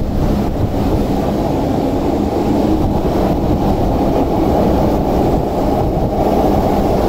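MTR Disneyland Resort Line M-Train moving along the station platform: a steady, loud, low running noise of the train's wheels and motors.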